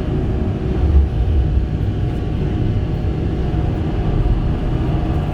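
Kobelco SK85 excavator's diesel engine running steadily, a continuous low rumble.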